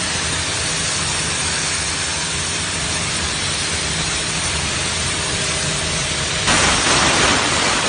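Steam hissing steadily from the gun of an LPG-fired mobile steam cleaner rated at about 18 bar, with a low machine hum beneath. About six and a half seconds in, the hiss turns louder and brighter.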